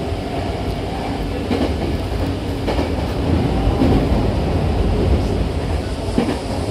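Hankyu Takarazuka Line electric train running and gathering speed, heard from inside the carriage by the doors. A steady low rumble carries a few short clacks from the wheels and track.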